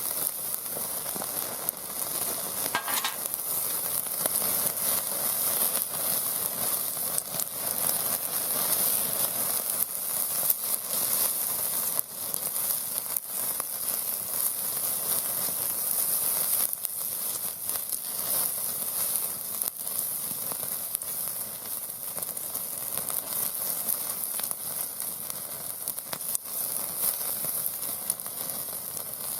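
Thin slices of pork loin sizzling over a wood fire pit: a steady frying hiss with frequent small pops of spitting fat.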